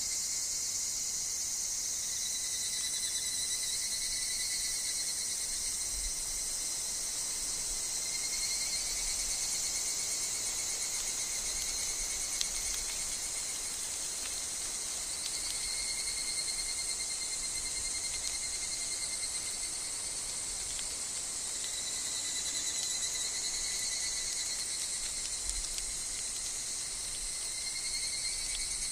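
Continuous shrill insect chorus in a forest, with higurashi (evening cicadas) calling. A dense high band is overlaid by two thinner steady tones that fade in and out, and a faint low rumble of wind comes and goes.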